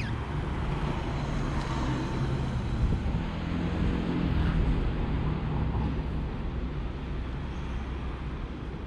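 Road traffic noise: a steady low rumble of vehicle engines and tyres, with a faint engine hum in the middle.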